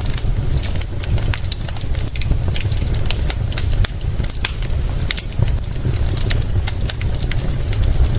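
Fire crackling, with frequent sharp pops spread unevenly through it, over a steady low rumble.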